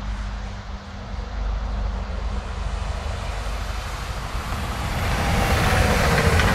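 Eurobahn Stadler FLIRT electric multiple unit approaching along the track, its running noise growing louder over the last two seconds, with a faint falling whine as it arrives. A steady low rumble lies underneath.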